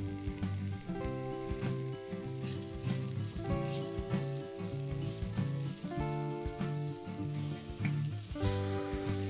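Diced onions and carrots sizzling in oil in a stainless steel pot while a silicone spatula stirs them, under instrumental background music whose chords change about every two and a half seconds over a repeating bass line. Near the end water starts pouring into the pot.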